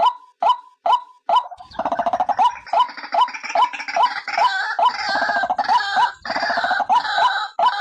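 White-breasted waterhen calls: a steady series of short, repeated notes at a little over two a second. From about two seconds in, a harsh, rapid, stuttering chatter with a low buzz joins them and runs until near the end.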